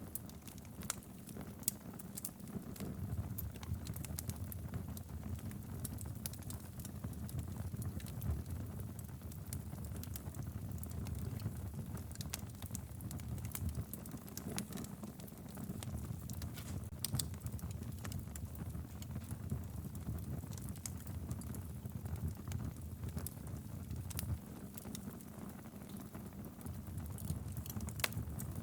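Log fire burning in a fireplace: a steady low rumble of flames with frequent sharp, irregular crackles and pops from the wood.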